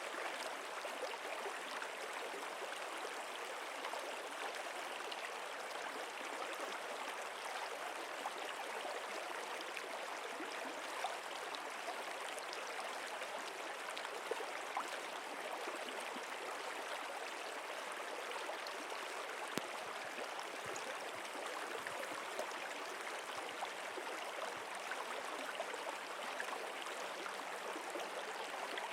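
Stream water running steadily: an even rushing babble flecked with small splashes and drips.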